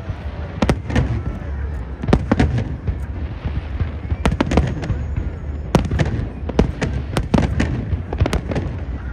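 Aerial fireworks going off: a rapid, irregular run of sharp bangs and crackles, several a second, over a continuous low rumble, with crowd voices underneath.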